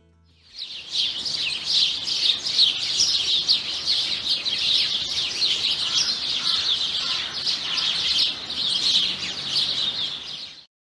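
A dense chorus of many small songbirds chirping at once, a steady chatter of short high chirps. It starts about half a second in and cuts off suddenly just before the end.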